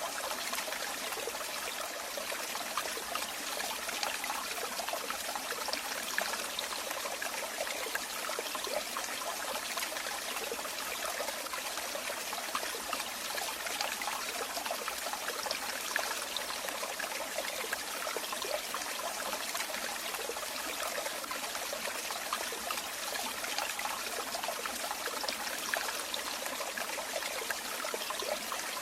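Running water trickling and splashing steadily, like a small stream or a flow of falling water.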